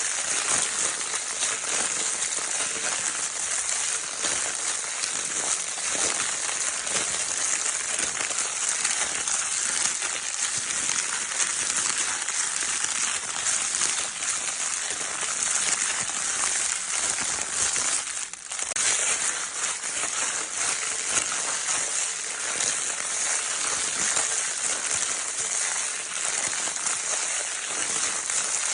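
Crinkle paper from a baby's crinkle toy being crumpled and rustled without a break, a dense crackling with fine clicks, dropping out for a moment about 18 seconds in.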